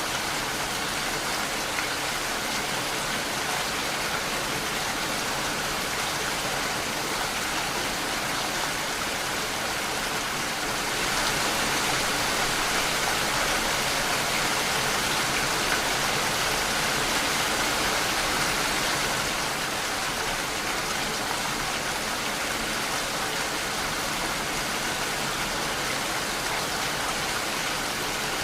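Steady rain falling, an even hiss of drops that swells a little heavier for several seconds from about a third of the way in to about two thirds, then settles back.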